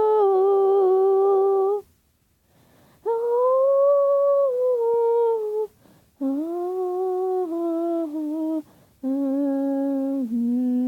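A person humming a slow tune in four long held notes with short breaks between them, the melody stepping lower in the last two.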